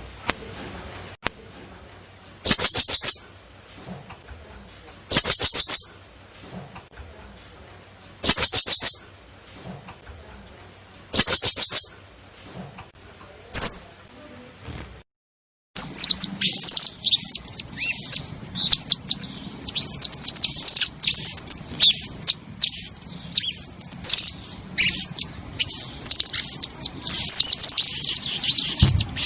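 Female blue-crowned hanging parrot (serindit) calling: shrill, high trilled bursts about a second long, spaced a few seconds apart. About halfway through, after a brief break, this gives way to rapid, nearly continuous twittering chatter.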